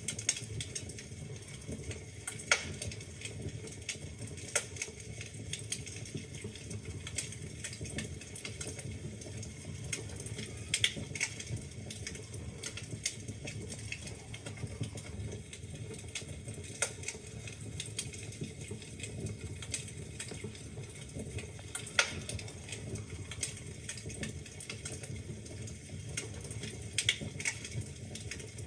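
Wood fire burning in a fireplace: a steady low rumble with frequent irregular crackles and sharp pops from the logs.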